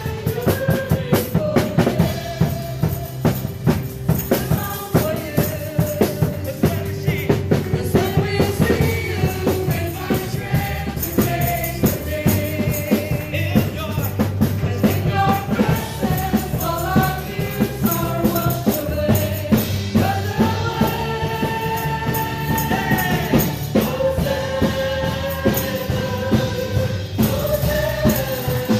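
Worship music: singers carrying a held melody over a drum kit keeping a steady, driving beat.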